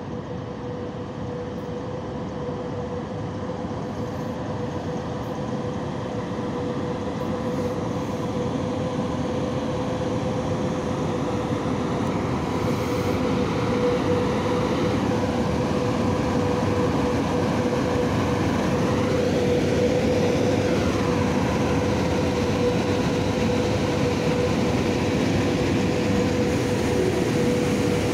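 VL80T AC electric locomotive hauling a freight train past, with a steady hum over the rumble of wheels on rail. It grows louder as the train draws near, then holds steady as the wagons roll by.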